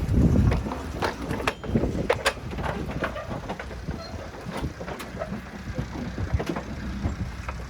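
Truck engine idling with a steady low rumble, under scattered knocks and clanks of livestock loading, with a loud thump right at the start.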